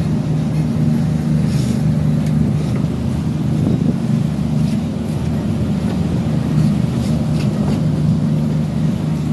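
A fishing boat's engine running at a steady low drone while the boat is under way at sea.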